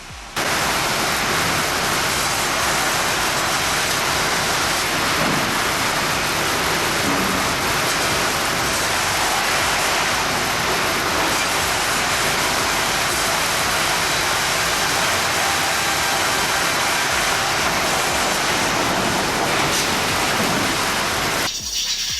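Sawmill saw cutting through a log: a loud, steady, even noise that starts suddenly and cuts off near the end.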